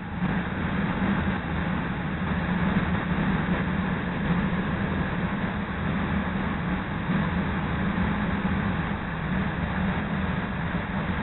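Steady rumble and hum of a CTA Red Line rapid-transit train at a station platform, with a strong low hum and no distinct events.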